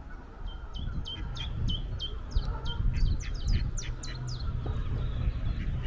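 Common chiffchaff singing: a steady run of short, high, repeated notes, about three to four a second, that stops a little before the end, over a low rumble.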